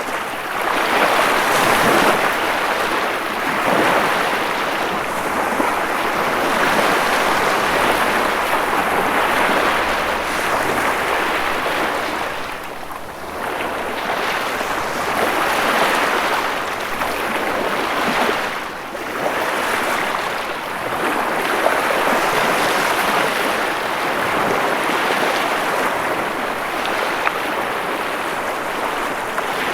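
Ocean waves breaking and washing in a continuous surf, swelling and easing every few seconds, with two brief lulls partway through.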